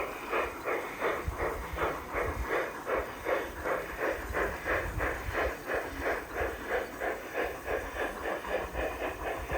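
Garden-railway model steam locomotive chuffing steadily, about four even puffs a second.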